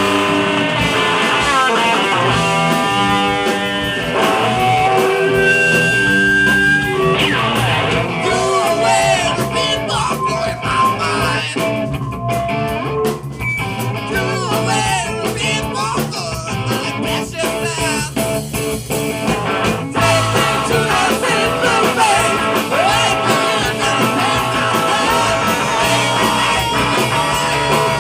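Psychedelic rock recording with electric guitar and drums; sustained stacked notes open it, then denser playing with singing follows.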